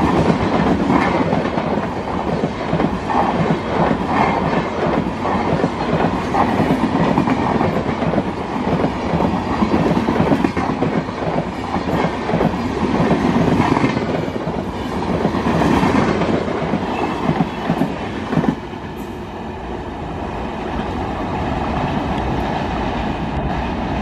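Passenger train coaches passing close at speed: the wheels clatter in a quick, uneven rhythm over the rail joints with a loud rushing noise. About three-quarters of the way through the sound cuts abruptly to a quieter, steadier running noise of a train.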